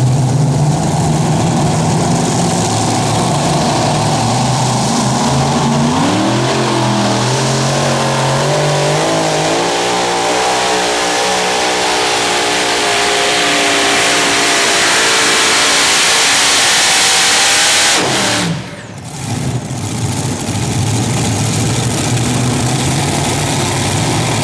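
Super modified pulling tractor's engine running loud, then revving up about six seconds in and holding high, slowly climbing revs under load during a pull. About three-quarters of the way through the revs drop off sharply as the throttle is shut, and the engine then runs on steadily.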